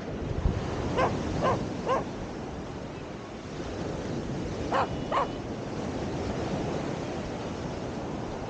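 A dog barking: three quick barks about a second in, then two more a few seconds later, over a steady rush of wind and surf.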